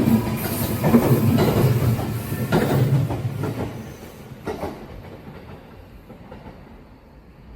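Kintetsu electric train passing at speed, its wheels clicking over the rail joints. The clickety-clack is loud at first, then fades away as the train moves off, with a last couple of clicks about four and a half seconds in.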